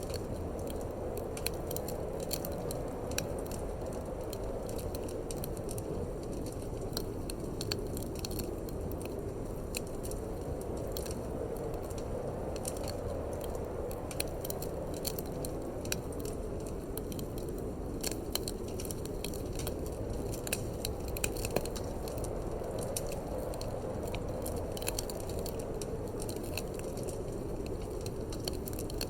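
Wood fire crackling in a fireplace, with many irregular small pops and snaps, over a steady low rush of wind that swells and eases slowly.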